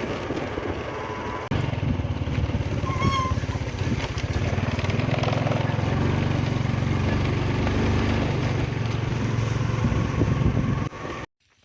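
Motorcycle engine running while being ridden, with wind noise on the microphone; the engine gets louder about a second and a half in, and the sound cuts off abruptly near the end.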